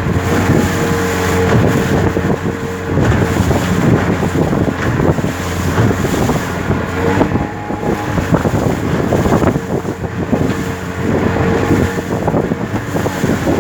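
Small motorboat's engine running steadily underway, with wind buffeting the microphone.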